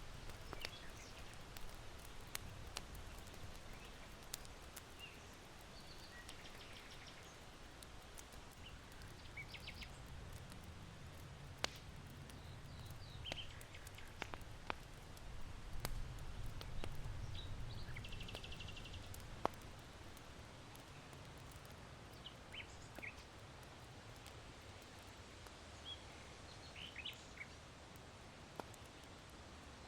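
Small birds chirping and trilling in short, scattered calls over a low rumble of wind that swells in the middle. Sparse sharp pops of charcoal crackling in an irori hearth come through now and then.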